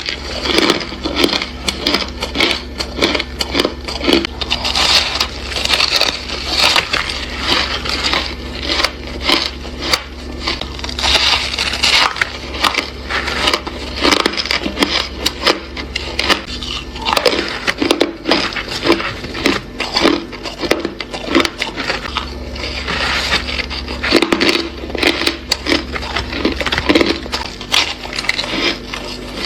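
Crunchy ice being bitten and chewed close to the microphone: a steady run of irregular sharp crunches and crackles, with a faint low hum underneath.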